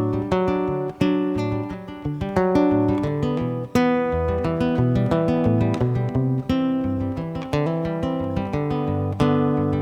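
Acoustic guitar strummed and picked in an instrumental passage between sung lines of a song, with frequent sharp note attacks.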